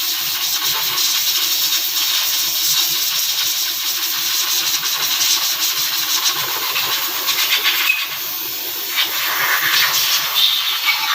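A loud, steady hissing noise with a fast fine rattle in it, dipping briefly about eight seconds in.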